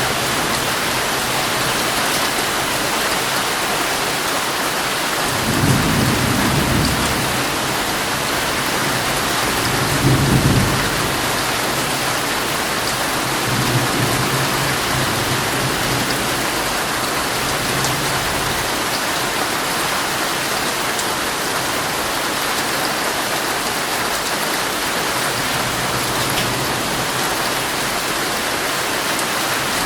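Heavy rain drumming steadily on a tent, with two low rumbles of thunder a few seconds apart in the first half and a fainter one shortly after.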